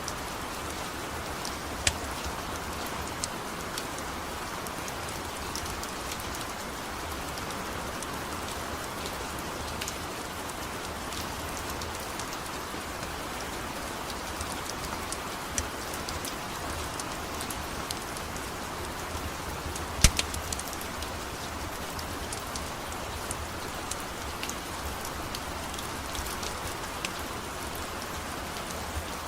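Steady rain falling, with scattered sharp crackles and pops from a wood-burning fire. One pop about two-thirds of the way through is louder than the rest.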